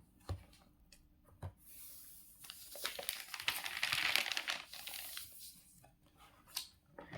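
Faint crackling rustle made of many tiny clicks in the middle stretch, with a few single clicks before and after it.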